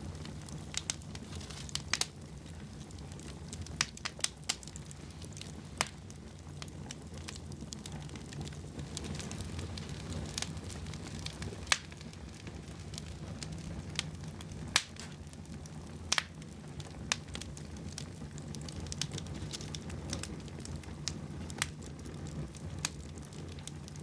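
Wood fire burning in a fireplace, with a steady low rumble under sharp, irregular crackles and pops scattered throughout.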